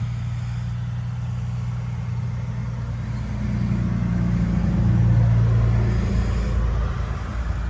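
1999 Nissan UD 1200's four-cylinder turbo diesel running steadily. It grows louder about three seconds in, then eases back near the end.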